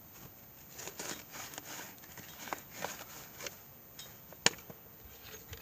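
Handling clatter: a series of light knocks and rattles, with one sharp click about four and a half seconds in.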